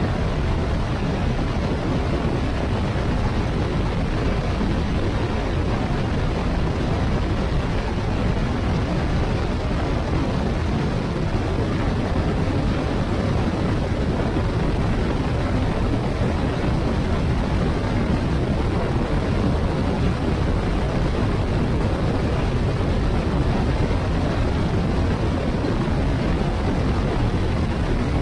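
Motorcycle riding at highway speed: a steady rush of wind and road noise with the engine underneath, unchanging throughout.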